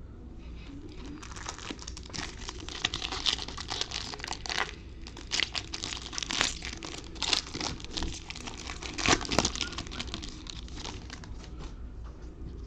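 Crinkling and tearing of a trading-card pack wrapper as it is ripped open and handled, with many irregular sharp crackles.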